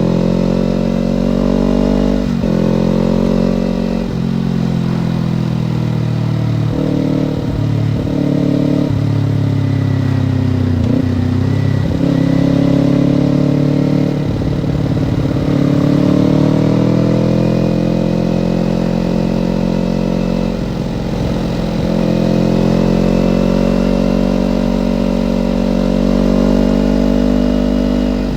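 Kawasaki Ninja parallel-twin engine under way while riding, its pitch climbing and dropping back several times in the first ten seconds as it shifts through the gears, then rising and easing off with the throttle.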